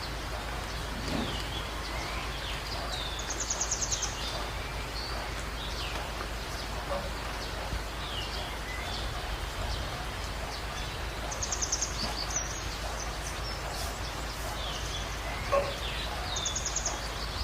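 Budgerigars chirping over steady rain: scattered short rising and falling chirps, with a quick high trill three times, about three seconds in, near the middle and near the end.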